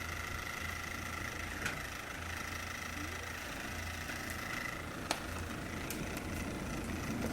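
A small electric motor running steadily with a low hum and a high whine: an electric appliance blowing on a bonfire to get it burning. Two short sharp cracks stand out, about a second and a half in and about five seconds in.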